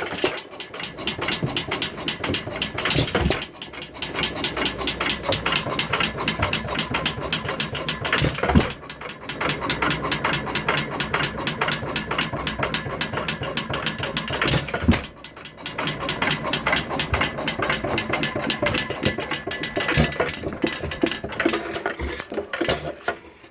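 1916 Woodpecker 1.5 hp hit-and-miss stationary engine running on a cold start, a fast steady chuffing and clatter that drops off briefly a few times, then dies near the end.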